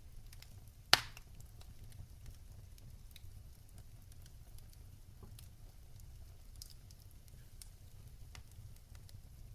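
Wood fire in a fireplace crackling: scattered small pops and snaps over a low steady rumble, with one loud sharp crack about a second in.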